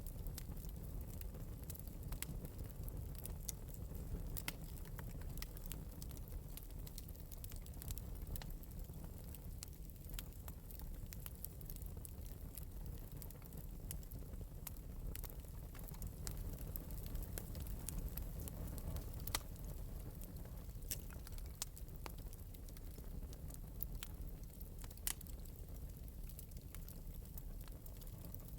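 Wood fire burning in an open metal fireplace: a soft low rumble with scattered light crackles and pops, a few sharper ones here and there.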